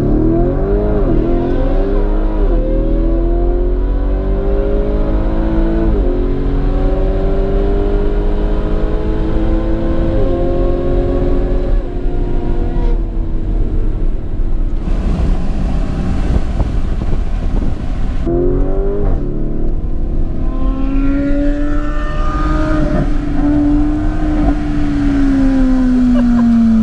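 Lamborghini Urus twin-turbo V8 at full throttle, heard inside the cabin, climbing in pitch through each gear with upshifts about 2.5, 6 and 10 seconds in. About 12 seconds in it lifts off into road and wind noise, and near the end the engine note falls steadily as the car slows down.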